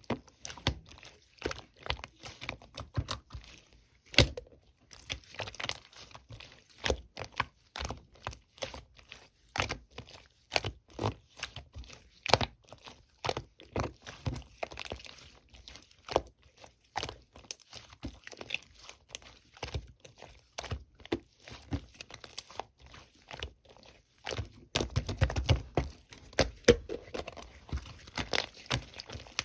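Slime being squished, stretched and folded by hand, making a steady stream of irregular small crackling pops and clicks that grow busier and louder near the end.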